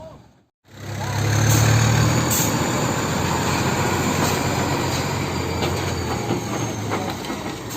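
Loud rumble of a heavy vehicle going past, starting abruptly about half a second in and easing off near the end.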